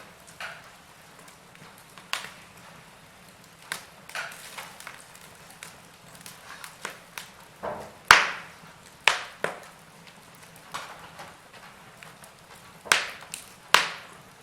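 Wood fire crackling in a fireplace: irregular sharp pops and snaps over a faint hiss, the loudest pop about eight seconds in and a couple more strong ones near the end.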